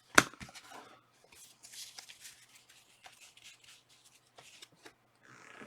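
Trading cards and foil pack wrappers being handled: a sharp click just after the start, then light rustling and ticks, with a louder rustle near the end.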